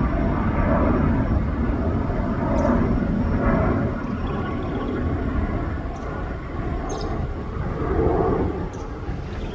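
Jet airliner engines rumbling just after take-off, slowly fading as the aircraft climbs away.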